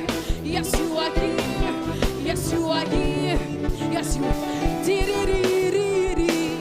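Live worship music: a band playing with a steady drum beat, sustained instrument notes and a voice singing.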